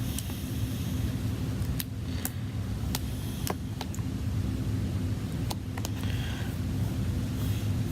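Scattered light clicks and taps from handling an iPad's glass digitizer screen as it is lined up and pressed onto the frame, over a steady low background hum.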